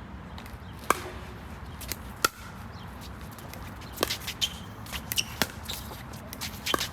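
Pickleball rally: paddles striking the plastic ball with sharp pocks, five hits at an even pace about a second and a half apart, with players' feet shuffling on the court between hits.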